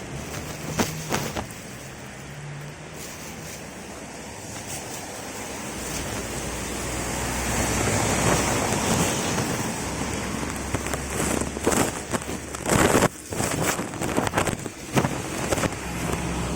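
Rain falling as a steady hiss, swelling about halfway through with a low rumble underneath, then a run of sharp knocks and clatters in the second half.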